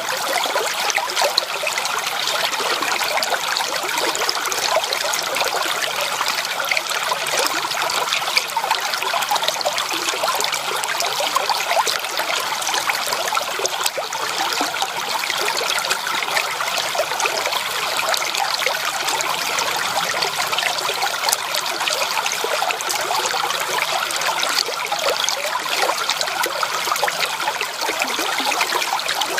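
Creek water trickling and babbling over stones, a steady, even splashing with many small gurgles.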